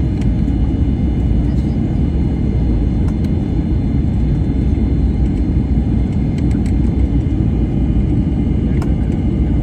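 Airliner's jet engines and rushing air making a steady low rumble, with a faint steady high whine over it.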